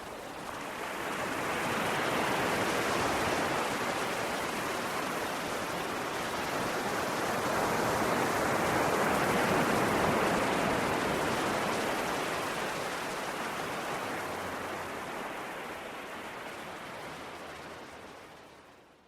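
Ocean waves washing on the shore: a steady rush of surf that swells around two seconds in and again around nine to ten seconds, then fades out near the end.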